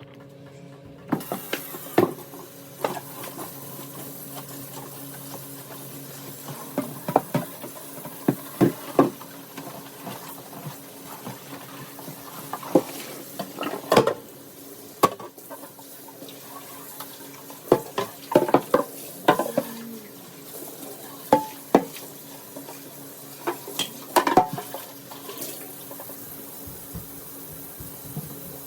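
Dishes and cutlery clinking and knocking while being washed in a kitchen sink, with the tap running steadily underneath from about a second in.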